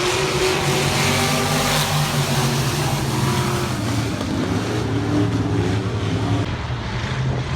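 Several IMCA stock cars' V8 engines running at racing speed on an oval, the engine notes rising and falling as the cars come past and go through the turns.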